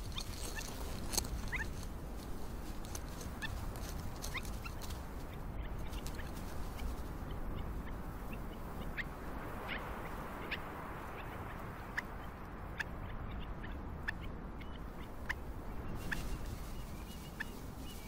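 Outdoor wildlife ambience: a steady low hiss with about a dozen short, sharp bird chirps scattered through it.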